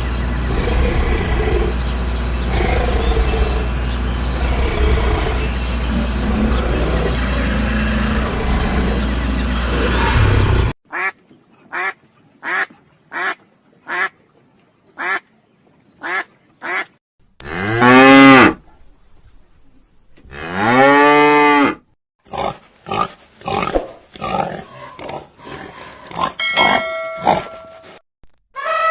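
A string of farm animal calls from several edited clips: about ten seconds of dense, noisy farmyard sound, then a cut to short calls repeated under a second apart, two long loud calls that rise and fall in pitch, and more short calls near the end.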